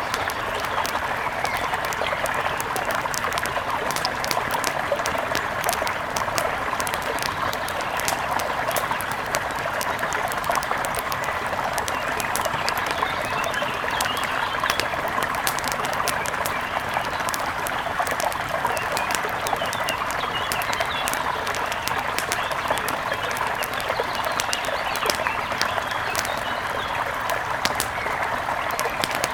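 Steady rush of a mountain river, with an outdoor wood fire crackling in frequent small pops over it and forest birds chirping now and then.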